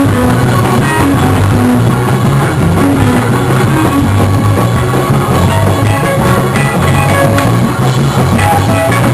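Loud live church band music for a praise break: drum kit, bass and guitar playing a steady, dense groove.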